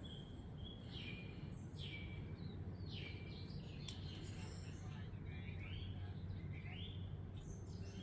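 Birds chirping: short, high, falling notes repeated over and over, over a steady low background rumble.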